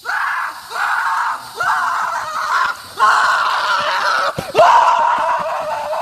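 A voice screaming in five long, loud cries with short breaks between them, each about a second long.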